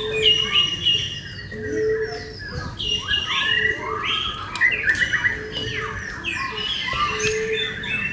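Many birds chirping and whistling at once, with quick rising and falling calls, over which a short low hooting note repeats about every second or so and sounds like a cuckoo.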